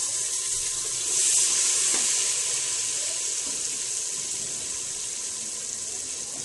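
Hot oil sizzling in an aluminium pressure cooker as moist ingredients (tomatoes, chillies, ginger, garlic) are stirred into browned onions. The sizzle swells about a second in, then slowly dies down as the pan cools from the added food.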